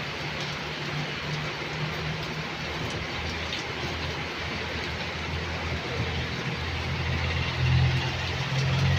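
Heavy rain falling steadily, with a low engine hum from a motor vehicle under it that grows louder in the last few seconds.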